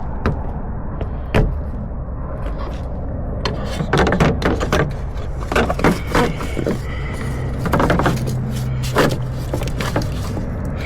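Scattered sharp clicks, knocks and scraping of tools and parts being handled, over a steady low rumble; the knocks bunch together about four seconds in and again near nine seconds.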